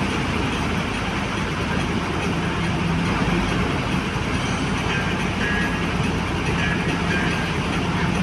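Steady rushing noise of a vehicle on the move, with a faint low engine hum underneath.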